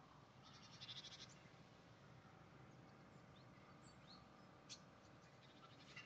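Faint birdsong: a quick chattering trill about a second in, a few short chirps, one sharp call near five seconds, and another short trill at the end.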